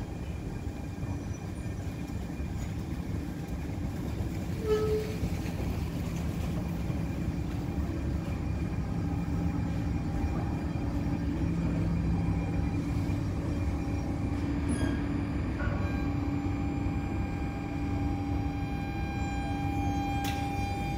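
A train running on rails: a steady rumble with a few held tones, growing slowly louder, and a brief higher squeal about five seconds in.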